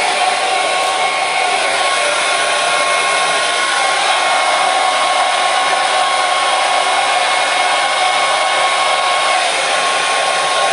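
Hair dryer running steadily: an even rush of blown air with a faint steady whine from its motor.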